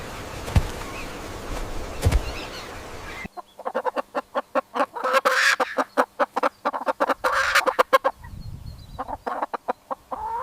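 Chickens clucking: a rapid run of short, repeated clucks starting a little over three seconds in, fading to fainter scattered calls near the end. Before that there is a stretch of outdoor background noise with a couple of knocks.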